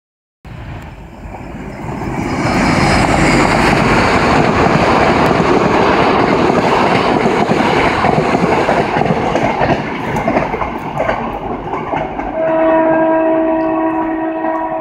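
ADtranz passenger train passing close by, its rumble and rail noise building over the first two seconds and staying loud. About three seconds before the end, as it runs away, it sounds a long, steady multi-tone horn.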